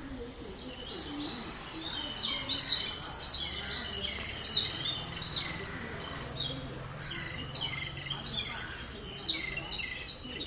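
Small birds chirping and twittering in quick, overlapping high notes, busiest and loudest about two seconds in, then coming in shorter runs.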